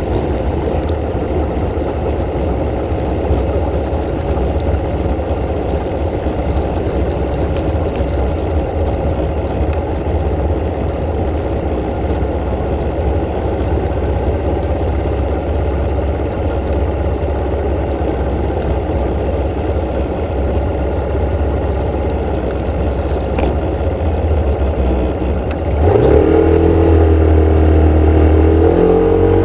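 A vehicle engine running with a loud, steady low rumble; about 26 s in, the engine revs up with a rising pitch and gets louder.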